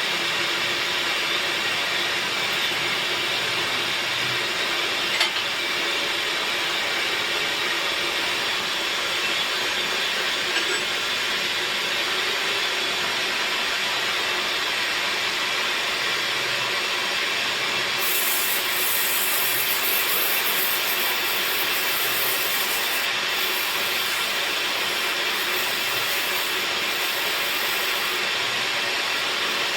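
Woodworking machine running steadily as teak is shaped, with a sharp click about five seconds in and a brighter hiss joining from about eighteen seconds in.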